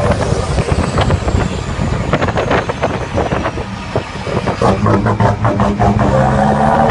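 Scania truck's diesel engine running, its note dropping off about four seconds in and picking up again. Rattling clicks run through it, with a faint falling whistle in the first half.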